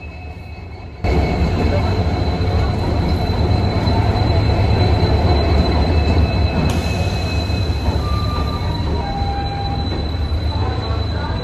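Indian Railways express train rolling slowly along a station platform. A diesel locomotive passes close with a deep engine rumble, then the coaches roll by, with a steady high-pitched squeal over it. The sound comes in abruptly about a second in.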